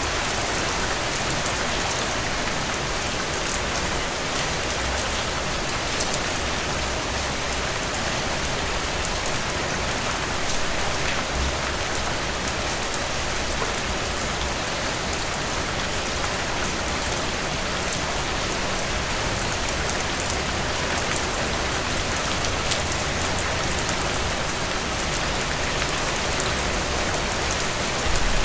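Steady rainfall: an even hiss of rain with scattered sharper drop ticks and a low rumble underneath.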